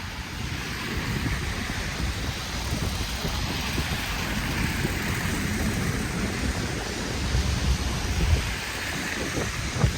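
Wind buffeting the microphone in an uneven low rumble, over a steady hiss of city street noise in a snowstorm, with tyres swishing past on a slushy road that swell twice.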